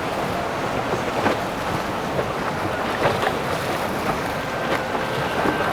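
Steady rush of wind on the microphone over water noise from boats on the river, with a few brief gusty peaks.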